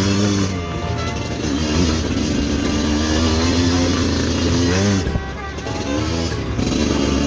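Motorcycle engine running under load, its pitch rising and falling with the throttle; about five seconds in it drops off briefly, then climbs again.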